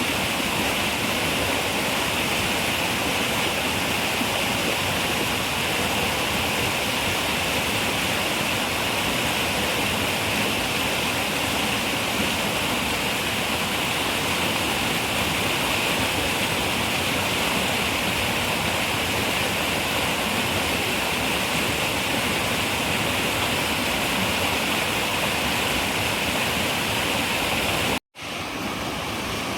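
Running river water, a steady rushing noise. About 28 seconds in it cuts out for a split second and comes back slightly quieter, like a splice between recordings.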